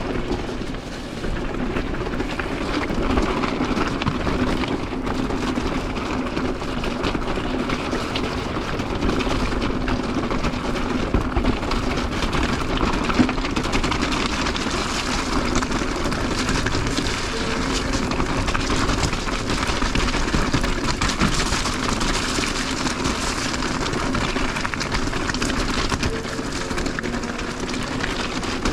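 E-mountain bike riding over a rough, rocky gravel trail: a steady rumble of tyres with rattling from the bike and camera mount and wind noise on the microphone, picking up about a second in.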